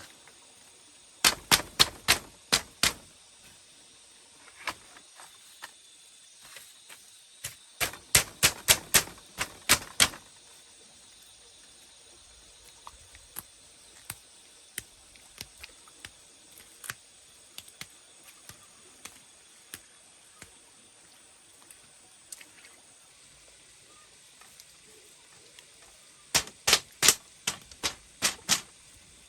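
Three quick runs of sharp knocks, about four a second, each run lasting about two seconds, with a few faint ticks between them.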